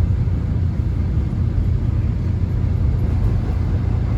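Inside a Korean subway car: the steady low rumble of the train running, with an even noise above it and no distinct events.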